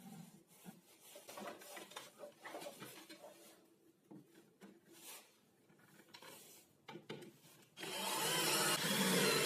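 Quiet scraping and handling of wood, then about eight seconds in a power tool starts running on wood, loud and steady.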